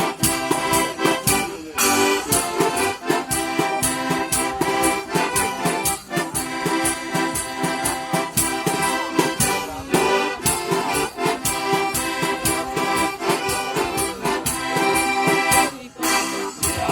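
Live folk band music led by accordion, an instrumental passage without singing, played to a quick steady beat.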